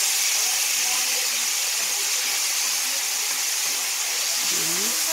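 Pork and mushrooms sizzling in a skillet with soy sauce, a steady frying hiss, while a wooden spatula stirs them.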